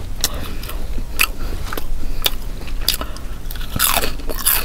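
Close-miked chewing of food, with crisp moist clicks about twice a second and a louder crunch near the end.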